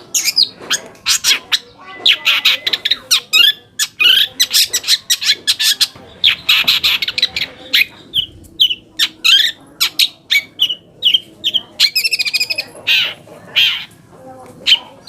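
Long-tailed shrike (cendet) singing a fast run of harsh, scratchy chattering notes, turning in the second half to shorter, separate sharp calls with a brief trill.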